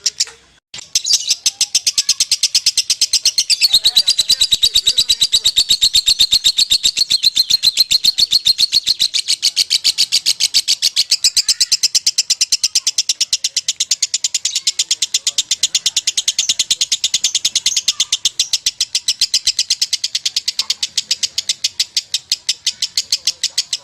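Lovebird singing its long 'ngekek' song: a fast, unbroken chatter of shrill repeated notes that starts after a short pause and keeps going for over twenty seconds.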